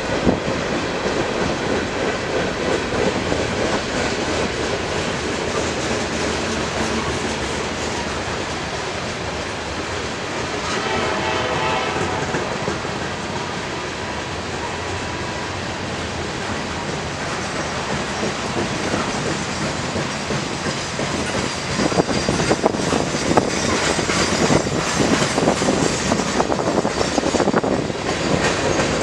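Train rolling past, its wheels clattering steadily over the rails. The clicking grows sharper and denser about three-quarters of the way through.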